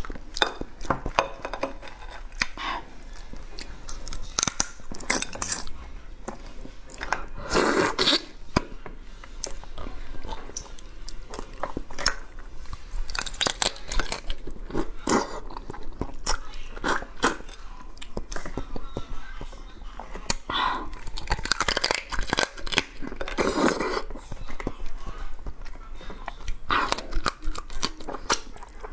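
Close-up eating of blue swimmer crab: the shell and legs crunch and crackle between the teeth, with wet chewing and sucking of the meat. There are a few louder stretches along the way.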